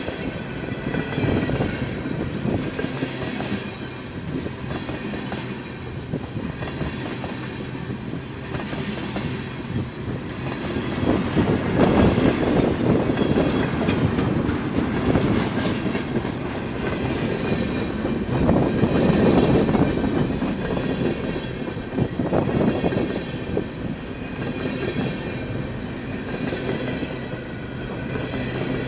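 A CN freight train rolling past, with its cars' wheels clacking over the rail joints in a continuous rumble that swells and eases as the cars go by.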